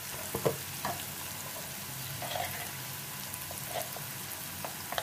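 Chopped onion and sliced green chillies sizzling in hot oil in a non-stick pan, a steady hiss, with a wooden spatula stirring and knocking against the pan a few times.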